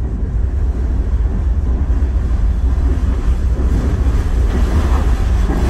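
Freight train rolling by close at hand: a steady low rumble with some wind on the microphone.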